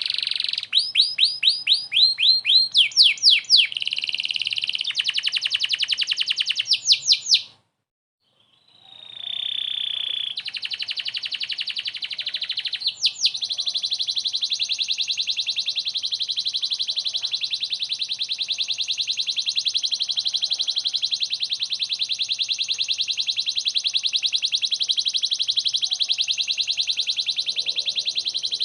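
Domestic canary singing: a run of quick sweeping whistled notes and fast trills, a short silent break about eight seconds in, then one long, very rapid trill that carries on.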